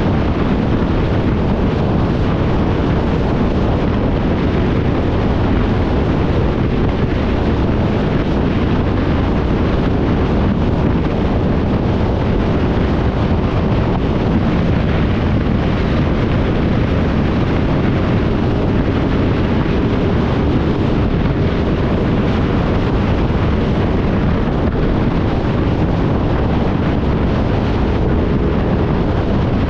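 Steady wind rushing over the microphone on a moving motorcycle, with the motorcycle's engine running underneath as a faint steady hum.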